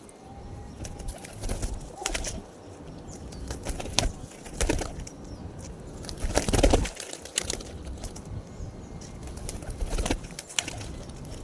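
Pigeons flapping their wings in short, sharp bursts, with some cooing between.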